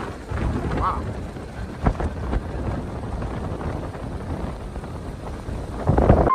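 Wind buffeting the microphone: a low, gusty rumble, with a single sharp knock about two seconds in.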